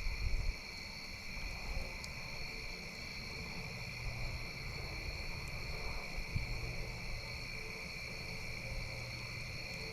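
Night insects chirring in a steady chorus at a couple of high pitches. Low rumbles and a few faint sharp clicks lie under it, with the loudest thump right at the start.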